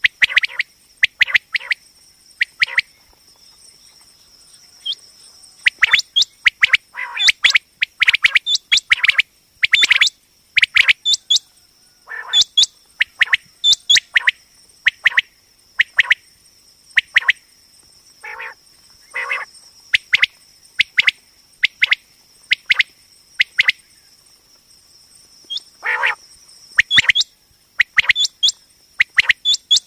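Common quail calling: short, sharp call notes repeated in quick clusters of two to four, with brief pauses between clusters, over a steady high-pitched tone.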